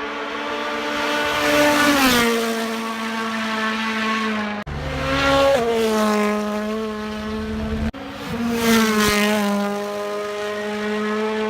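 Rally cars driving past at speed, three passes in turn, each engine note loud as the car comes by and then dropping in pitch as it goes away. The sound breaks off abruptly twice between passes.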